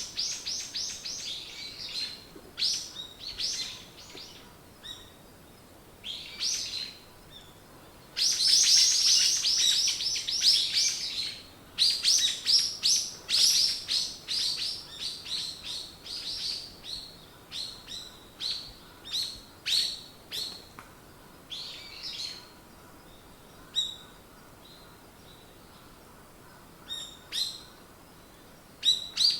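Small birds chirping in quick runs of high, downward-sweeping notes. For a few seconds about a third of the way in, the chirps come thick and fast as a dense chattering burst, then thin to scattered single chirps near the end.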